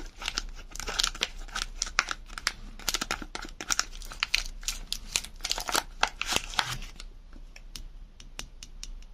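Soap wrapping crinkling and tearing as a bar of soap is unwrapped: a dense run of crackles that thins to scattered ticks about seven seconds in.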